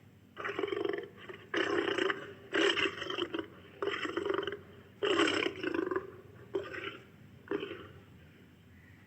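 Barbary lion roaring in a bout of about seven calls: the first few long and loud, the later ones shorter and fainter, tailing off into grunts.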